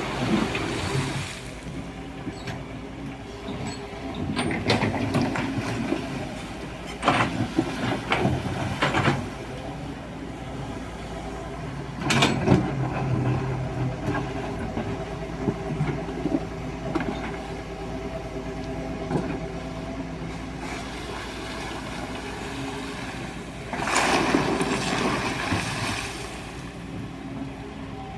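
Excavator engine running steadily, with several short, louder bursts of grinding noise as the bucket works gravel and stones in the stream bed.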